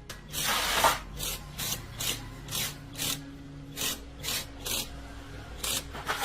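Hand tool scraping metal in repeated rasping strokes, about two a second after a longer first stroke, with a short pause near the end.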